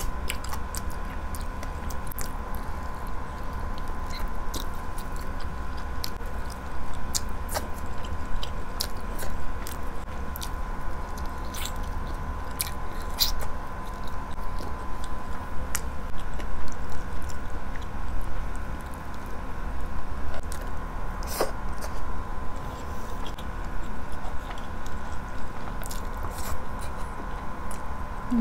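Close-miked eating sounds: biting and chewing grilled chicken eaten by hand, gnawing meat off the bone, with many short wet mouth clicks. A steady low hum and a faint steady high tone run underneath.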